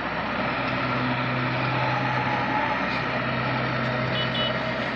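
Construction machinery engine running steadily with a low hum, with two short high beeps about four seconds in.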